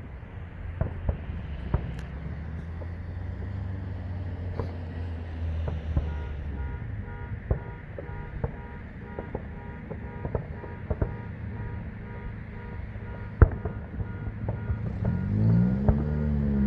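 Distant fireworks going off in scattered bangs and pops, one sharper bang about thirteen seconds in, over a steady rumble of road traffic. Near the end a vehicle passes close, its engine pitch rising and then falling.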